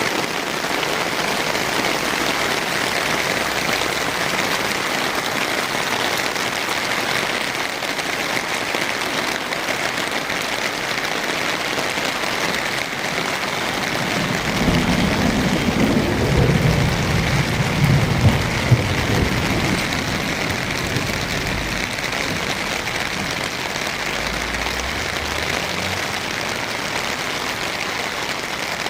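Heavy rain pouring steadily, splashing onto ground and surfaces that are standing in water. Near the middle a low rumble swells for several seconds and fades.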